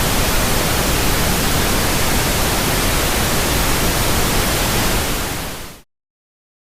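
Steady, loud hiss of broadcast static. It fades out quickly almost six seconds in and gives way to dead silence.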